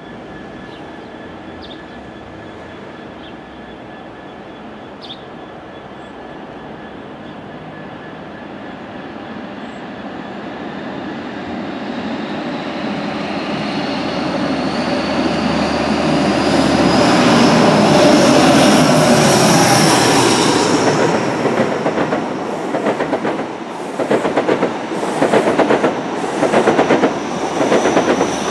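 A train approaching and passing, growing louder for about twenty seconds, with a thin high whine that rises in pitch and then holds. From about two-thirds of the way in, the wheels clatter over the rail joints and points in an uneven rhythm.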